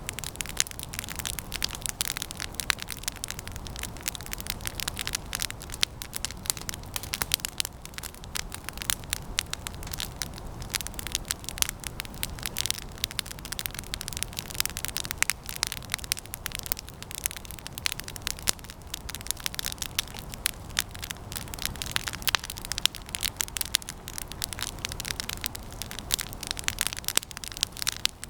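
Campfire of resinous pine branches burning, with dense, irregular crackling and snapping over a low steady rush of flame.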